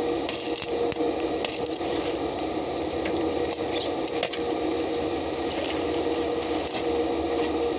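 Stick-welding arc crackling steadily, with a fine, continuous sputter and a steady hum underneath.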